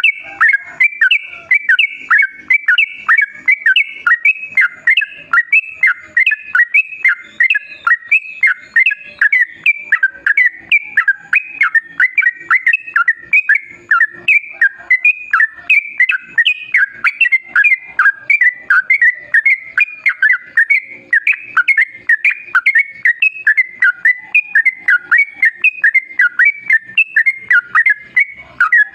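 Yellow-vented bulbul (trucukan) singing a long, unbroken run of quick, bubbling chirps, several notes a second.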